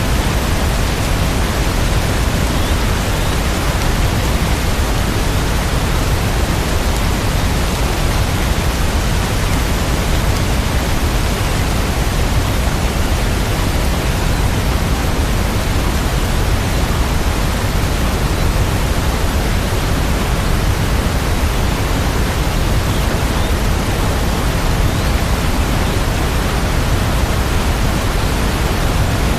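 Steady rain sound: a dense, even hiss with no single drops or changes standing out.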